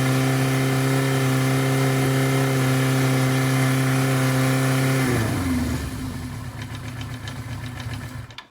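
1983 Suzuki GS1100GK's air-cooled inline-four engine held at a steady 4,000 rpm for a stator output test, which shows the stator charging properly. About five seconds in the throttle closes and the revs fall to a lower, rougher running note, and the sound stops abruptly near the end.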